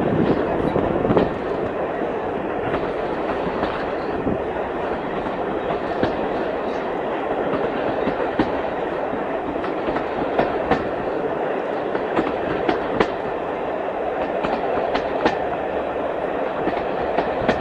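Passenger carriage of a moving steam train heard from inside: the steady rumble of wheels on the track, with sharp clicks every second or so as the wheels cross rail joints.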